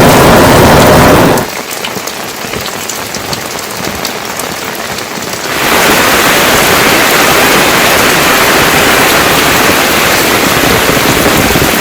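Heavy rain. About a second and a half in it drops to a quieter patter with separate drops ticking. At about five and a half seconds it switches to a steady, heavy downpour hiss.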